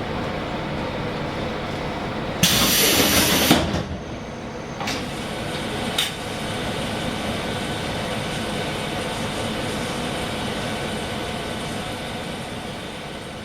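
Diesel railcar running steadily while stopped, heard from inside the car. About two and a half seconds in comes a loud hiss of compressed air lasting about a second, followed by two short clicks.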